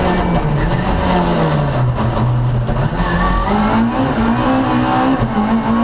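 Race car engine heard from inside the car on track: the revs fall for about two and a half seconds as it lifts off, then climb steadily as it accelerates again.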